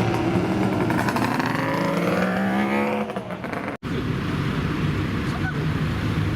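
A car engine revving up as the car accelerates, its pitch rising for about two seconds. It is cut off abruptly, and a different engine follows, running steadily.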